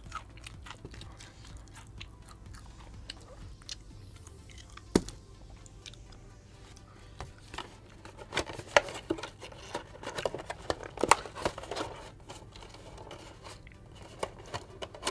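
Chewing and crunching of crispy fried chicken batter, with scattered clicks and rustles of a paperboard food box. The clicks cluster in the second half as the box's flaps are folded shut.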